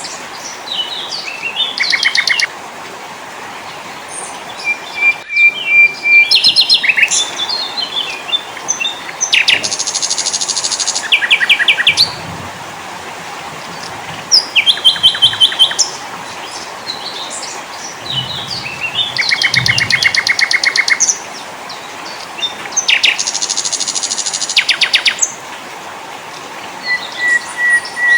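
Mixed songs of several small songbirds: bursts of rapid trills and chirps, with a held whistle note twice, over a steady hiss.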